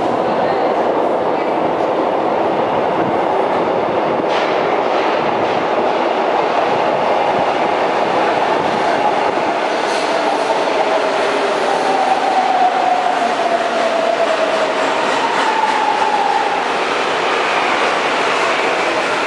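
São Paulo Metro subway train running, a steady rumble and rail noise, with a tone that slides down in pitch about midway.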